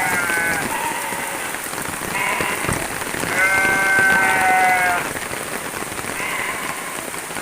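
Steady rain falling, with an animal bleating several times: short calls at first and again near the end, and one long call in the middle.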